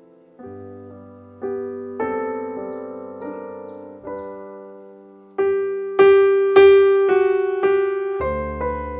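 Slow piano playing of a melody in chords, each chord struck and left to die away, getting louder from about halfway through. Faint high chirps sound above the piano a few seconds in.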